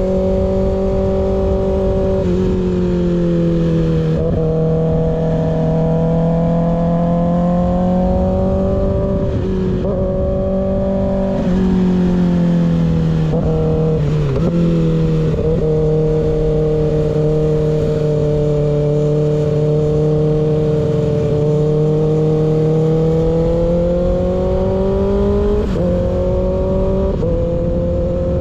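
Kawasaki ZX-6R inline-four running through an unbaffled M4 GP19 slip-on exhaust while riding. The engine note holds steady for long stretches and dips and rises briefly several times as the throttle and gears change. There is a low wind rumble underneath.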